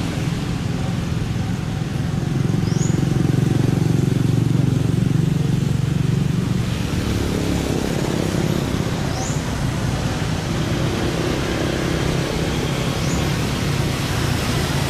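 Steady low engine rumble of a running motor vehicle, with a faint short high chirp every few seconds.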